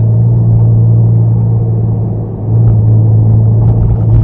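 Car engine heard from inside the cabin, pulling steadily under gentle throttle out of a turn. Its level dips briefly a little over two seconds in and then comes back at a slightly higher pitch.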